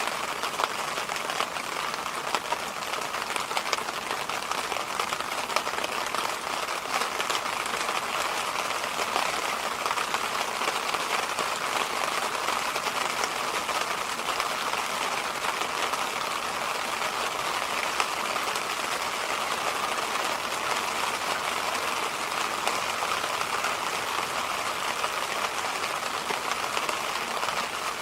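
Electric fan running steadily: an even rushing noise with a fine crackle running through it.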